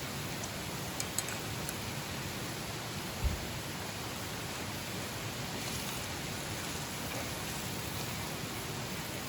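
Steady rain falling, an even hiss throughout, with a couple of faint ticks about a second in and a soft low thump a little past three seconds.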